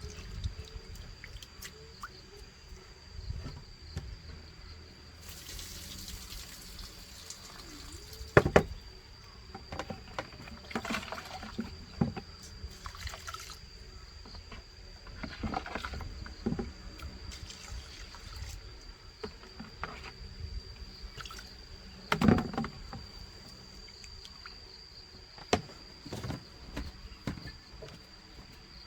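Kitchen work: water pouring and splashing for a couple of seconds, with scattered knocks and clinks of pots and utensils, two sharp knocks the loudest. A faint steady high tone sits underneath.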